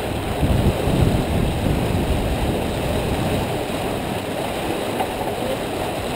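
Wind buffeting the microphone and water rushing along the hull of a J/24 sailboat under way: a steady, rumbling noise, a little louder about a second in.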